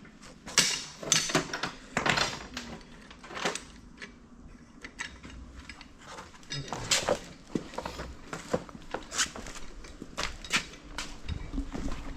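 Loose metal parts clinking and knocking together as they are handled and sorted during the reassembly of a corn head: a string of irregular, sharp clanks.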